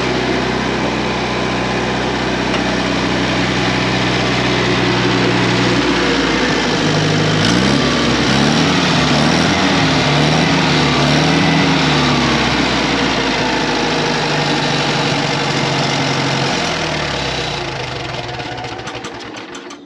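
International 424 tractor engine running. It holds a steady speed, then its pitch rises and falls several times, settles again, and winds down near the end.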